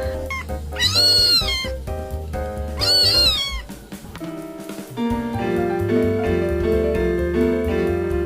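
A cat meowing twice, two drawn-out meows that rise and fall in pitch, about two seconds apart, over background music.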